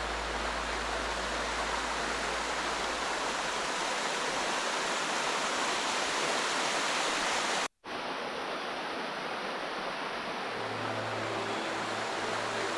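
Steady rush of water from a mountain creek and waterfall, broken by a brief moment of silence about eight seconds in.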